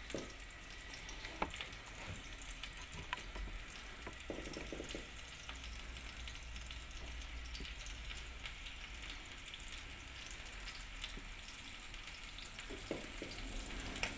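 Locusts frying in hot oil in a frying pan: a steady, quiet sizzle with a few small pops.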